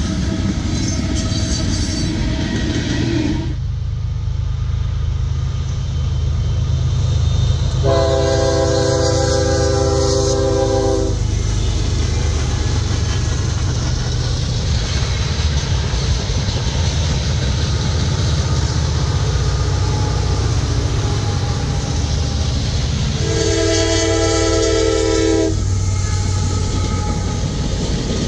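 CSX freight trains passing: steady low rumble of the diesel locomotives and freight cars rolling on the rails. A locomotive air horn blows twice, for about three seconds starting about eight seconds in and for about two seconds near the end.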